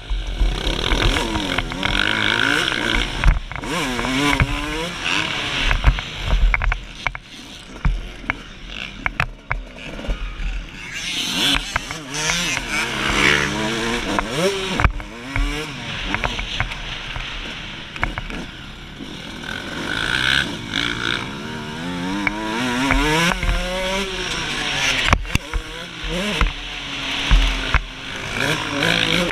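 A 2003 Suzuki RM125's two-stroke single-cylinder engine revving hard and dropping back again and again as it is ridden on a motocross track. Short thuds from bumps and landings come through on top.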